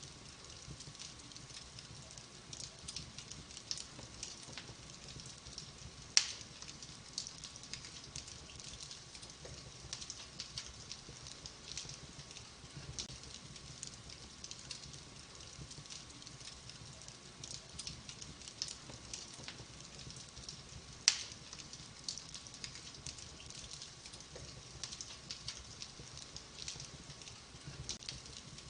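Wood fire burning in a fireplace, crackling with many small quick ticks and two sharp, louder pops, one about six seconds in and another about fifteen seconds later.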